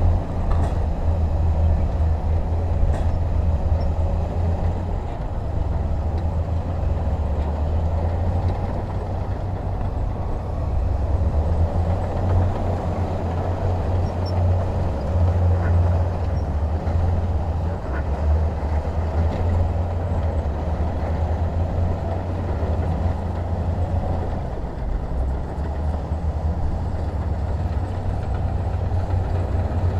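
Heavy diesel engine running steadily with a deep, continuous rumble.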